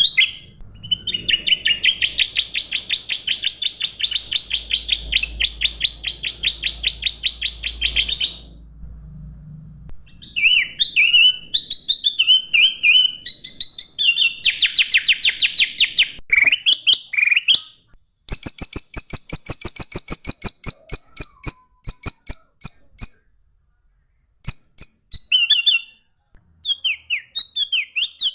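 A songbird singing loudly: long, fast rattling trills of sharp high notes, then varied warbling phrases, a very fast ticking trill about two-thirds of the way in, and short bursts with pauses near the end.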